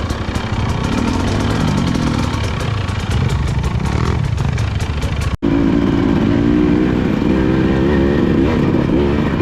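Off-road motorcycle engine revving up and down, with clatter in the first half. After an abrupt cut about five seconds in, an engine runs at steadier revs.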